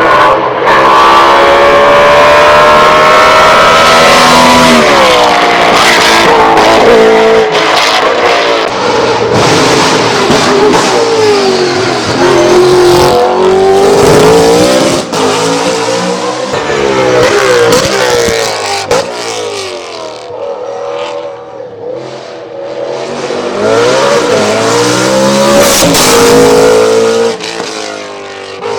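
BMW Z4 GT3 race car's P65B44 V8 at full throttle, revving high through the gears with repeated rising pitch climbs, drops at each upshift and downshift, and a lighter-throttle dip in the middle before pulling hard again.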